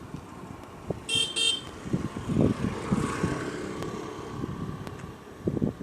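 A vehicle horn gives two short, high-pitched toots about a second in, followed by the noise of a vehicle going past.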